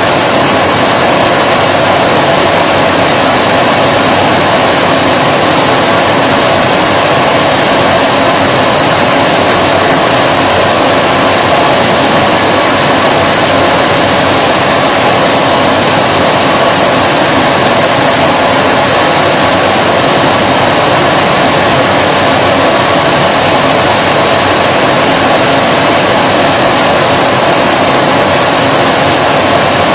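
Vacuum cleaner motor running steadily: an even rushing noise with a steady hum in it, unchanging throughout.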